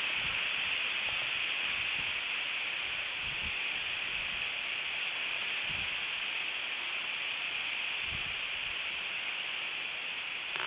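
Strong wind on an outdoor microphone: a steady hiss with a few brief low gust thumps, about three and a half, six and eight seconds in.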